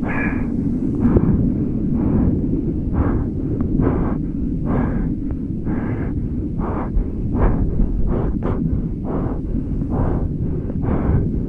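Wind buffeting the microphone as a steady low rumble, with water splashing in a regular rhythm a little more than once a second, like hands paddling a surfboard.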